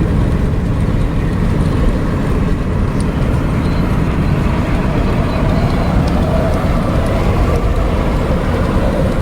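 Steady engine and road noise inside the cab of a truck cruising along a road: a continuous deep rumble with no change in speed.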